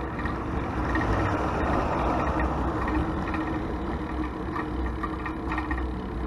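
Road traffic heard from a moving bicycle: a steady low rumble, with a vehicle passing close by about two seconds in.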